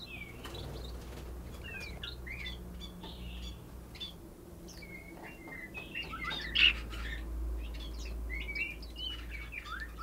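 Several small songbirds chirping and twittering in quick short calls that rise and fall in pitch. A low steady hum runs underneath, and there is one brief sharp rustle about six and a half seconds in.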